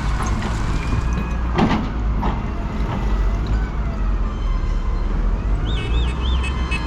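Steady rumble of heavy vehicles and machinery at a road construction site, with a couple of sharp knocks about one and a half and two seconds in. Near the end comes a short, repeated rising-and-falling electronic tone.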